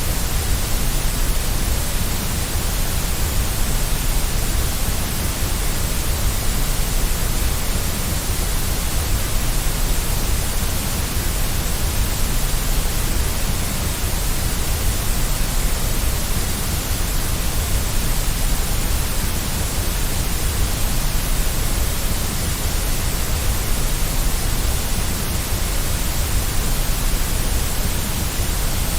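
Continuous white-noise hiss, a steady even rush with a deep low rumble underneath and no changes.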